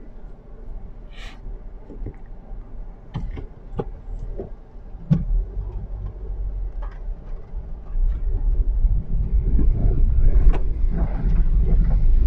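A car driving on snow-covered city streets, heard from inside: a steady low rumble of road and engine noise that gets louder about two-thirds of the way through, with scattered short knocks and clicks.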